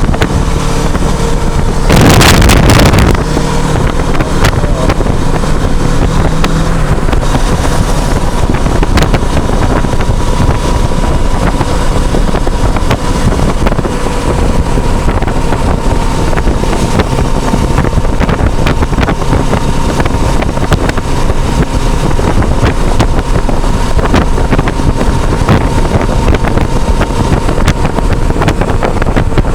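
Kawasaki Versys 650 parallel-twin engine running steadily under way, buried in heavy wind noise on an action camera's built-in microphone, with a louder blast of wind about two seconds in.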